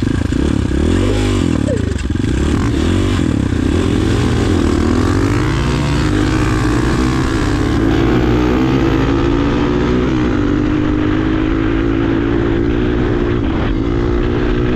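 Air-cooled enduro motorcycle engines at full throttle in a drag race. The engine pitch swings up and down through the first five or six seconds, then holds higher and climbs slowly.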